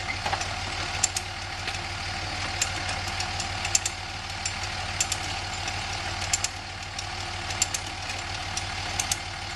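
An engine idles steadily under a scatter of irregular sharp clicks and small knocks.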